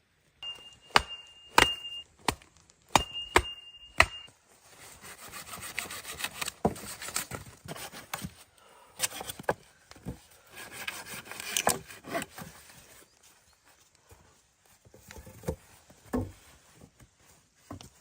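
Wood being worked by hand: about six sharp knocks in the first four seconds, with a thin high ringing tone under them, then a long stretch of rough rubbing, sawing-like strokes with a few more knocks.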